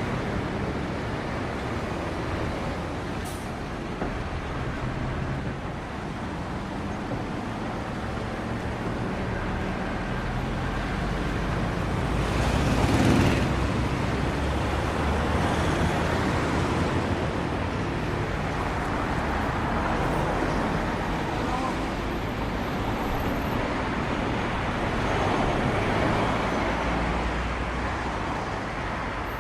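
Road traffic noise heard from a bicycle, with one vehicle passing loudly a little before halfway through.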